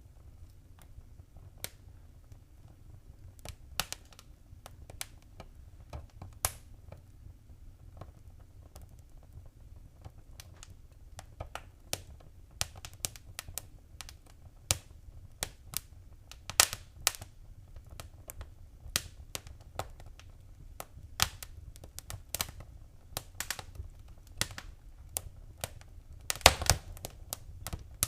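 Fireplace wood fire crackling: irregular sharp pops and snaps over a low steady rumble, sparse at first and coming thicker from about halfway, with a loud cluster of snaps near the end.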